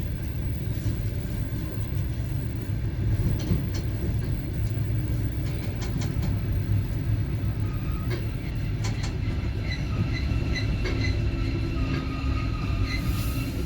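Passenger train carriage rolling along the track: a steady low rumble with scattered wheel clicks over the rails, heard from inside the carriage. A few short high squeaks come about two-thirds of the way through.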